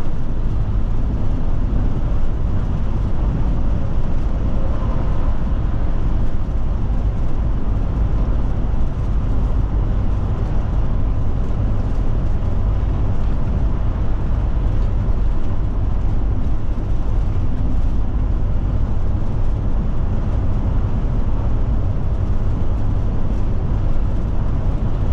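Steady road and engine noise heard inside the cab of a Forest River Forester motorhome driving at road speed: a deep, even rumble with a hiss over it.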